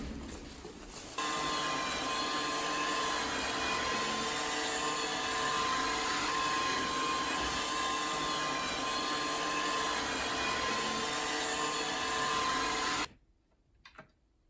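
A small electric motor appliance running steadily with a whining hum, starting about a second in and cutting off suddenly near the end.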